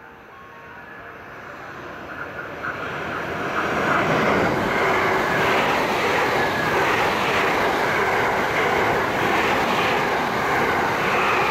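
Thunderbird limited express electric train approaching at speed and passing close by: the rush of wheels on rails builds over the first few seconds, then holds loud and steady as the cars go by.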